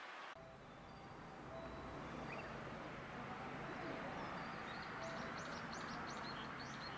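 Low rumble of an approaching 115-series electric train, growing slowly louder. A bird chirps a quick run of high notes about five seconds in.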